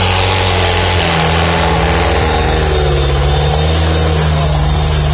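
Diesel tractor engine running hard under load, with the pitch wavering slightly as it pulls a heavy weighted load.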